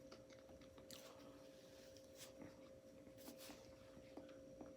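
Near silence: quiet chewing, heard only as a few faint mouth clicks, over a faint steady hum.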